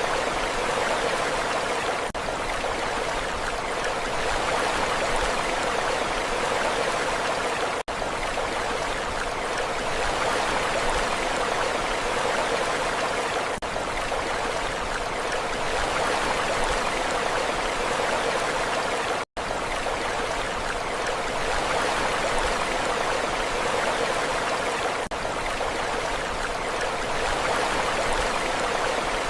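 Steady rushing water, an even continuous wash with no distinct breaking waves. It cuts out very briefly twice, about a third and about two thirds of the way through.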